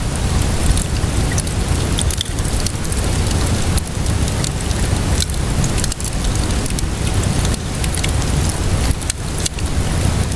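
Steady rainfall mixed with a wood fire crackling, with frequent sharp pops from the burning wood.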